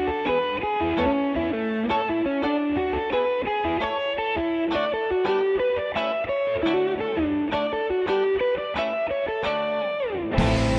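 Instrumental break in a blues-rock song: a lead electric guitar plays a run of single notes with little else under it, slides down in pitch, and the full band with drums comes back in near the end.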